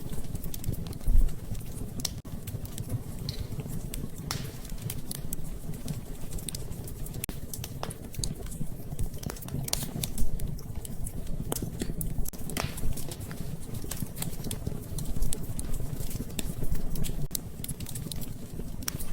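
Wood fire burning in a fireplace with a steady low rumble of flames and irregular sharp crackles and pops; two pops stand out as louder, about a second in and about ten seconds in.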